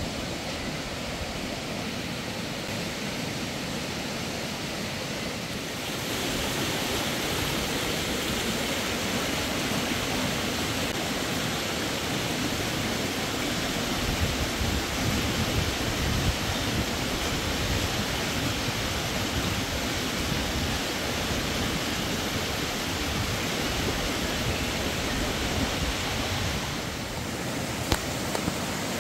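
Steady rushing noise, without any tone or rhythm, getting louder about six seconds in and easing slightly near the end.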